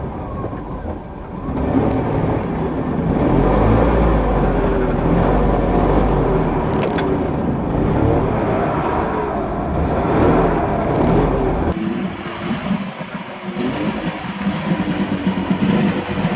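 Car engine running with some revving and a deep low rumble. Near the end the sound changes abruptly to a different, quieter engine note.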